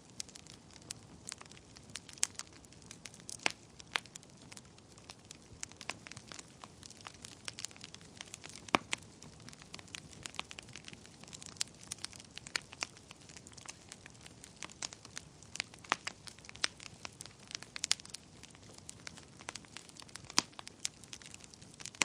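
Wood fire burning in a fireplace, crackling with irregular sharp pops and snaps, a few louder ones, over a soft steady hiss.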